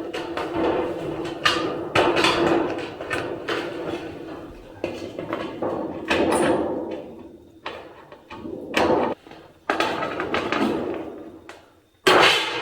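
Thin metal roofing sheet being cut and handled: a run of irregular metallic crunches and rattles, with the panel ringing briefly between them.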